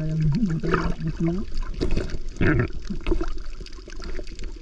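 Underwater sound while snorkel-diving: a bubbling, gurgling water noise over a low hum that wavers in pitch now and then. There is a louder rush of bubbles about two and a half seconds in.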